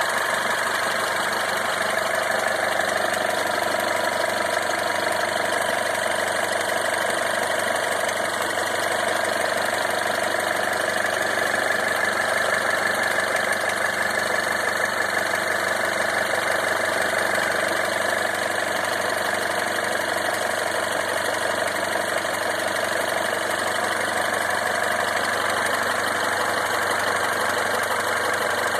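Mini Countryman petrol engine idling steadily with a clattering sound that sounds like a diesel; the owner questions it as a noise at start-up.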